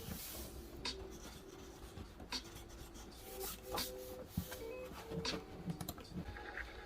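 Pen writing on paper: short scratching strokes with small taps and clicks.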